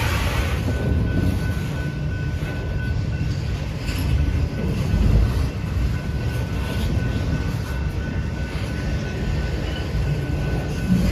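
Freight train cars rolling past, a steady rumble of wheels on the rails.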